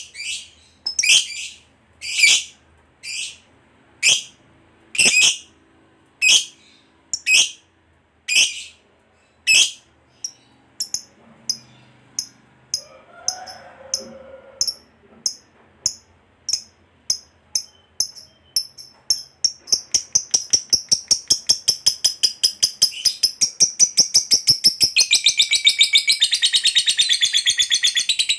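Lovebird calling: sharp, high single chirps about one a second, quickening after about ten seconds, then running into a long, rapid chattering trill (the 'ngekek panjang') from about twenty seconds in, growing louder toward the end.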